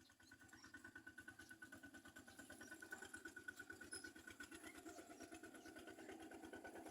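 Faint engine running steadily with a fast, even pulsing beat, growing a little louder over the first few seconds.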